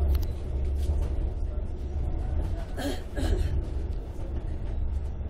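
Electric passenger train heard from inside the carriage while running at speed: a steady low rumble of wheels on the track. A short, higher sound stands out briefly about three seconds in.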